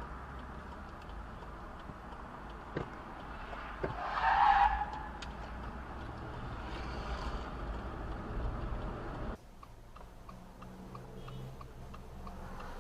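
Car road and engine noise heard from inside a moving car, with a brief louder squeal about four seconds in. A little after halfway it cuts to a quieter engine hum with faint regular ticking.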